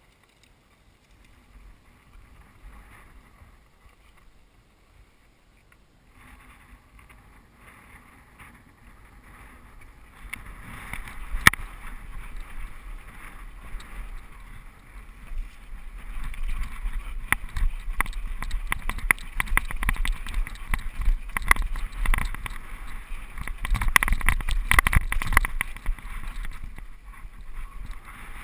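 Mountain bike descending a rough dirt downhill trail: tyres rolling over dirt and rocks with frequent knocks and rattles from the bike over bumps, and wind on the microphone. Quiet at first, it grows much louder and busier about ten seconds in.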